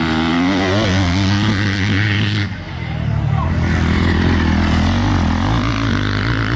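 Motocross dirt bike engines racing, their pitch rising and falling as riders rev through the course, with a short dip in loudness about two and a half seconds in.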